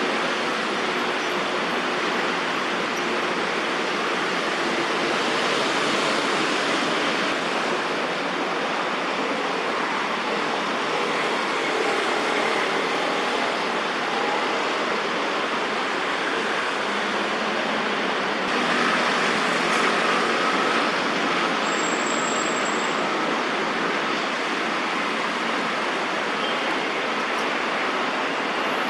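Steady road traffic noise from the surrounding city, an even hiss with no breaks. A brief high, thin tone sounds once about 22 seconds in.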